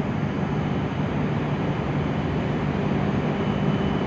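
Steady low hum and rumble of an E7 series Shinkansen train, with a faint high steady tone above it.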